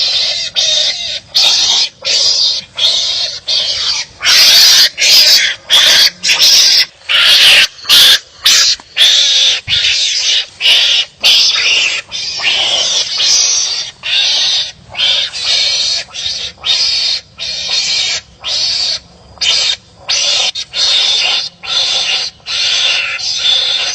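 Wild animals fighting, giving a rapid series of harsh, barking calls, about one to two a second. The calls are loudest a few seconds in.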